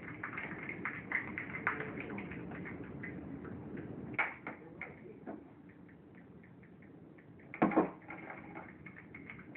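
Slime being stirred in a plastic container with salt mixed in to activate it: a quick run of small sticky clicks and taps, thinning out about halfway, then one louder knock near the end.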